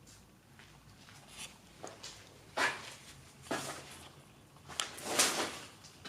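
Footsteps scuffing on a hard floor in a small, enclosed space: a few short scraping steps, louder in the second half.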